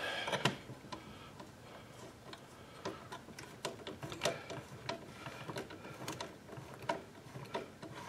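Faint, irregular light clicks and taps of plastic parts being handled and fitted together. They are sparse at first and come more often from about three seconds in.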